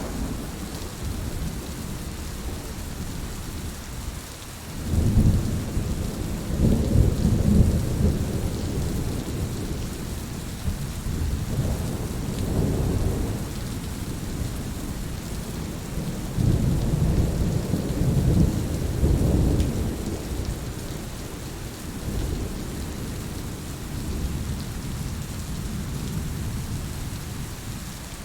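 Heavy rain falling steadily, with low rolling thunder swelling several times, loudest about five to eight seconds in and again around seventeen to twenty seconds in.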